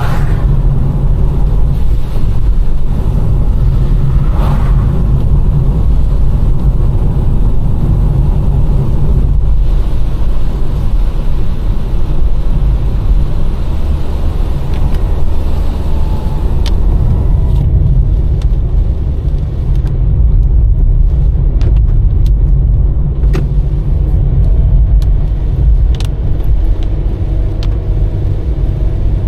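A car driving along a road in the rain, with the steady low rumble of engine and tyres. A few sharp ticks come in the second half.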